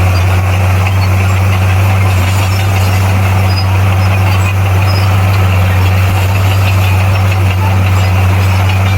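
Bulldozer's diesel engine running at a steady speed, a loud, unchanging low drone.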